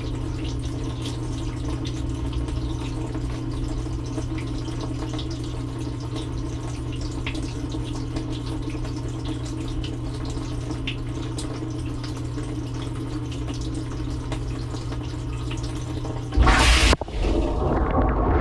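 Dishwasher early in its cycle, heard from inside the tub: a steady hum with water trickling and splashing as it fills. About sixteen seconds in comes a sudden loud rush of water, a brief break, then a louder steady spraying as the wash pump starts.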